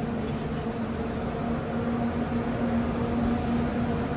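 A steady mechanical hum with a held low drone, taken at the time for the airport train running out of sight.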